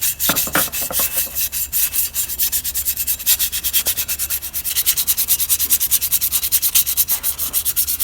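Fast back-and-forth hand scrubbing or sanding strokes on a bicycle part, several strokes a second, quickening toward the end, as rust or old finish is worked off.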